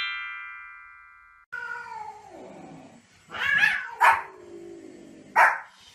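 A transition chime rings out and fades. Then a Pomeranian gives a long falling cry and three sharp barks in the last few seconds.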